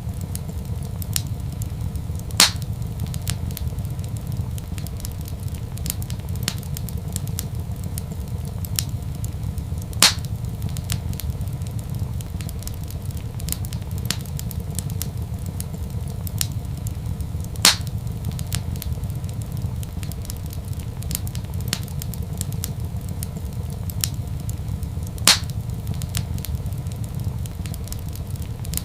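Wood fire crackling in a fireplace: a steady low rumble under many small crackles, with four louder sharp pops evenly spaced about seven and a half seconds apart.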